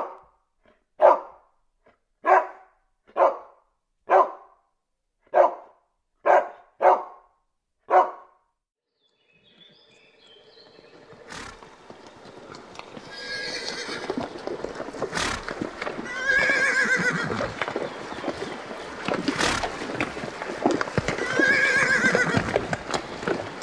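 A dog barking about nine times, single barks roughly a second apart. From about nine seconds in, a horse neighs three times over a steady background noise, with a few sharp knocks like hoof strikes.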